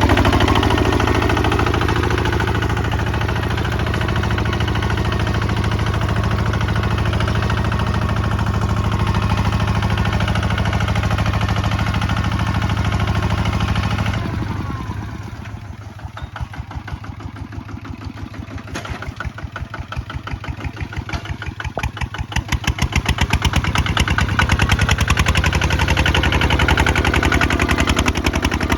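Kubota ZT 155 DI walking tractor's single-cylinder diesel engine running steadily at working speed, then throttled back about halfway through to a slow idle where each firing stroke is heard separately, and picking up speed again near the end.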